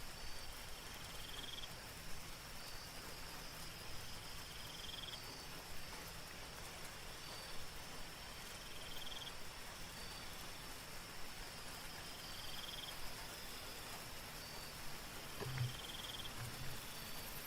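Soft, steady rain with a chorus of night insects: a continuous high trill and a short chirp that repeats about every three and a half seconds. Two or three low croaks come near the end.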